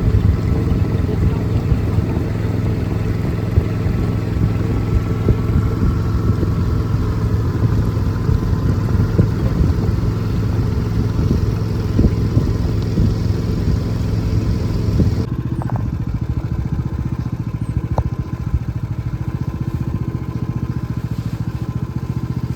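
A small boat's motor running steadily at a constant pitch. About two-thirds of the way through, the sound abruptly becomes a little quieter and duller.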